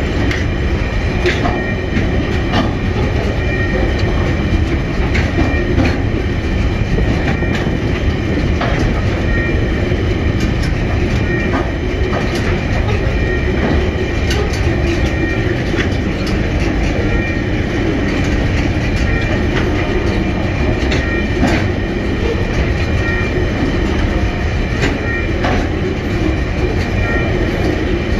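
Container train wagons rolling past close by: a steady rumble of steel wheels on rail, with scattered clicks as the wheels cross rail joints.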